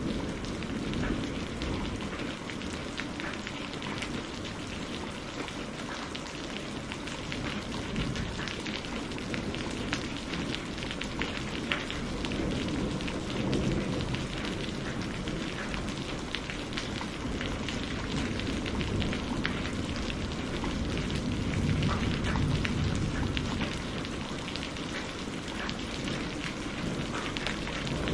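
Steady heavy rain hissing and pattering on a surface, with a low thunder rumble swelling and fading underneath.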